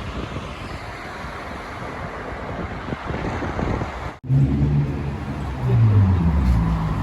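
Street traffic noise with wind buffeting the microphone. After a cut about four seconds in, a nearby motor vehicle engine runs louder, its pitch rising and falling.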